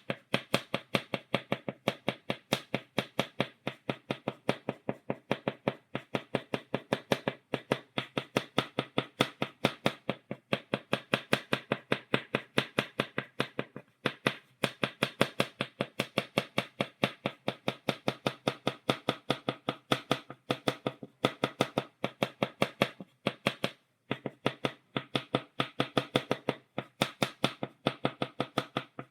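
Chalk tapping against a blackboard, stippling dots: a quick, fairly steady run of sharp taps, a few a second, with brief irregular gaps.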